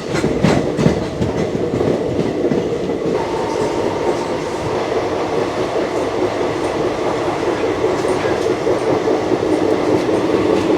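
Passenger express train running at speed: a loud, steady rumble of wheels on rail, with a few sharp clicks in the first second.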